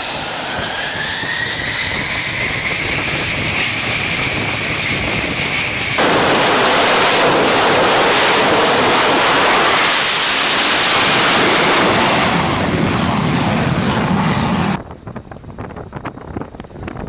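Jet aircraft engine noise: a whine rising in pitch for about six seconds, then a sudden cut to a louder steady roar. Near the end the roar stops abruptly and gives way to quieter clicking.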